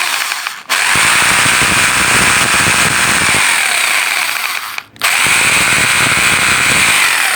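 A Hammer MR650 650 W rotary hammer's electric motor runs at full speed with a steady high whine. It cuts out briefly about a second in and again near five seconds, then picks up again. This is a test run after the switch was bypassed and the carbon-brush leads were swapped to reverse the rotation.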